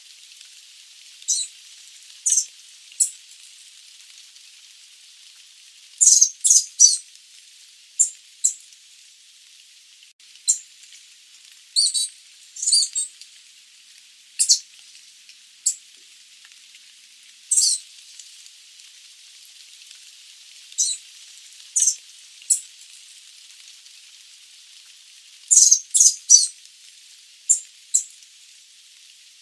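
Sooty babbler calling: short, sharp, high-pitched notes at irregular intervals, some single and some in quick runs of three or four, over a faint steady hiss.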